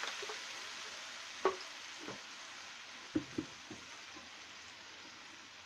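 Blended chili, galangal, ginger, onion and garlic paste sautéing in a little oil in a wok: a steady frying sizzle that slowly grows quieter, with a few short soft clicks from the pan.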